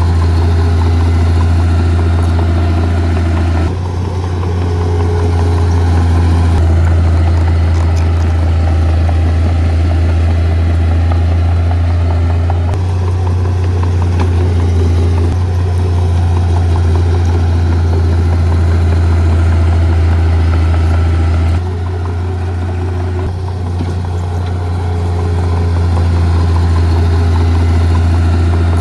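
Heavy diesel engine of earth-moving equipment running steadily, with a deep low hum and clattery mechanical noise above it. The sound shifts abruptly several times.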